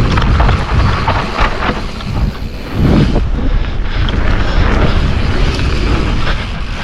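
Wind rushing over the action-camera microphone and tyres rolling over a dirt trail as a Giant Trance X full-suspension mountain bike descends at speed, with short clicks and clatter from the bike over rough ground.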